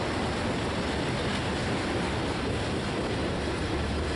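Intermodal freight train of truck trailers on flatcars rolling past, a steady noise of wheels on rail and passing cars.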